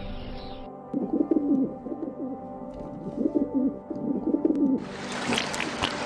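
A bird cooing in short repeated phrases, in several groups, over faint steady background tones. Near the end a steady hiss sets in.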